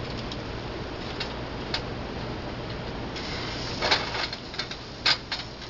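Breaded chicken frying in hot olive oil in a pan: a steady sizzle with scattered crackles and spatters, getting louder and busier about three seconds in.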